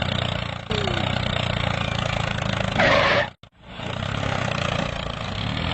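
Small engine of a homemade mini tractor running steadily, with a louder rushing noise about three seconds in and a brief break just after.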